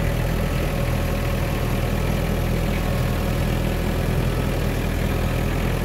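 Small diesel tractor engine running steadily with an even, low rumble.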